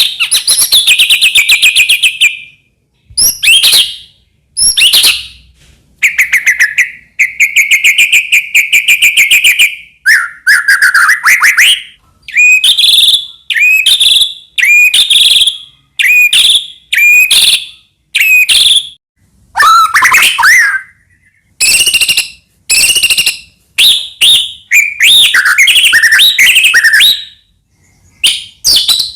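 White-rumped shama (murai batu) singing loudly in full song. Its varied phrases run from rapid trills of quickly repeated notes to short whistled phrases, with brief pauses between them.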